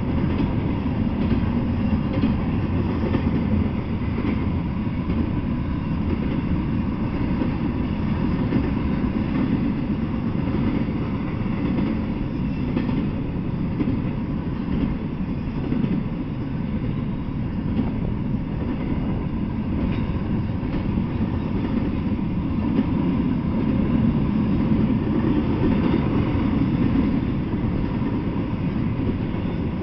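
Double-stack intermodal freight train rolling past on well cars: a steady, continuous rumble of steel wheels on the rails.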